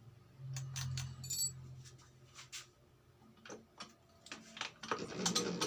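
Scattered sharp clicks and light metallic taps of tools and the cylinder block being handled on a workbench, with a brief low hum about half a second in and the clicks coming thicker near the end.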